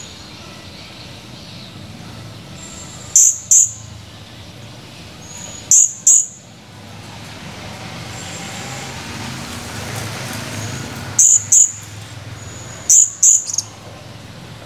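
Blue-crowned hanging parrot (serindit) giving sharp, very high chirps in quick pairs, four pairs in all, with a few faint thin whistles between. A low rumble runs underneath, swelling about two-thirds of the way in.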